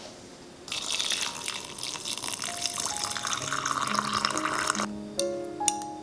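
Water running from a tap into a sink: it comes on abruptly under a second in and shuts off a little before the end, followed by a few sharp clicks.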